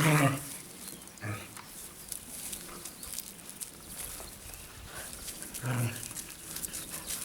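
Finnish Lapphund dogs growling: a short low growl at the start, a brief grunt about a second in and another short growl near six seconds, with faint rustling between.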